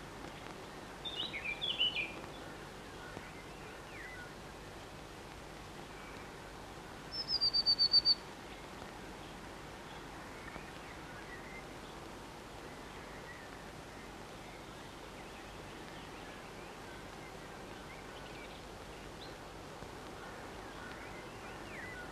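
Small birds calling over a steady hiss: a quick jumble of high chirps about a second in, then a fast trill of about eight high notes, falling slightly, around seven seconds in.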